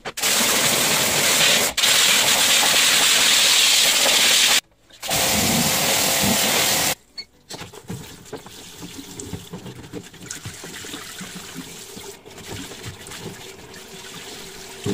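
Water jet spraying to rinse out the dismantled washing machine's grime: a loud hissing spray in two long bursts, broken off about four and a half seconds in and again at about seven seconds, followed by quieter spattering water.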